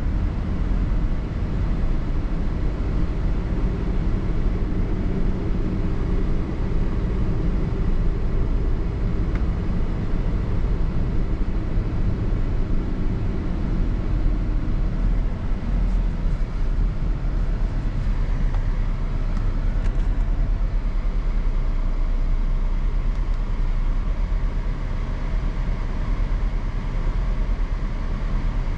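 Car driving on the road: a steady low rumble of tyre and engine noise heard from inside the moving car.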